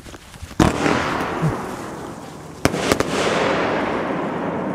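Fireworks from a three-shot bomb tube (Dreischlag Mega-Shot, gold glitter crowns with blue stars) firing: a loud bang about half a second in with a long echoing tail, then two sharp cracks close together a couple of seconds later, trailing off into a long noisy wash.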